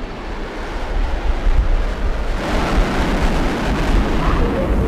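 Military aircraft flying past overhead: a low rumble of engine noise that swells louder and brighter about halfway in as the formation passes.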